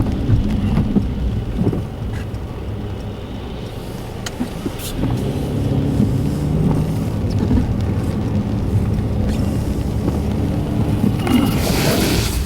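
Car driving slowly on a wet road, heard from inside the cabin: a steady low engine and road rumble, with a short rush of noise a little before the end.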